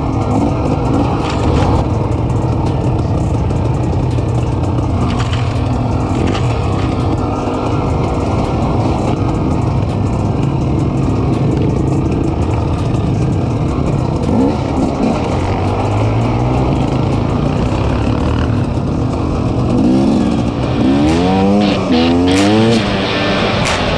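Off-road vehicle engine running steadily under way, with a few quick rising revs near the end.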